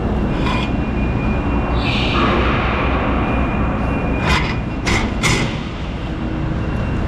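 Dump truck's diesel engine running with a steady low rumble, heard from inside the cab. A hiss comes in about two seconds in and lasts over a second, and a few sharp knocks or rattles follow in the middle.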